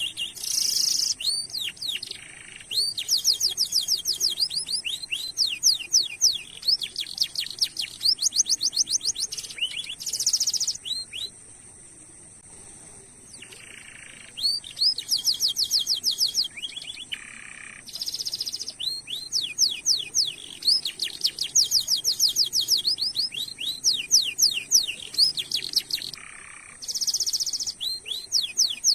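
Domestic canary singing: long rolling trills of fast repeated high notes, broken by short harsh bursts, with a brief lull about halfway through. A thin steady high tone runs beneath the song.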